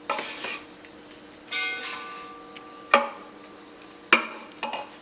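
Metal spoon or ladle knocking against a metal cooking pot as cooked rice is scooped out: a few sharp clanks, and one that rings on like a bell about one and a half seconds in.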